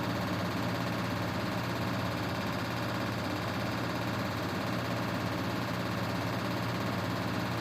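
Grundig GWM4762WE20 washing machine spinning its drum at a steady speed in an intermediate spin before the final rinse: an even motor hum that does not change.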